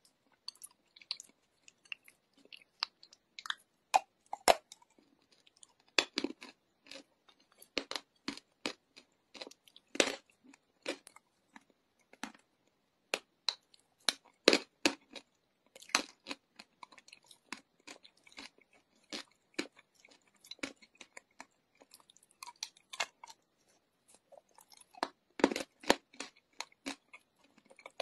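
Wet chunks of chalk bitten and chewed close to the microphone: irregular sharp crunches and crackles, several a second, with brief quiet gaps between them.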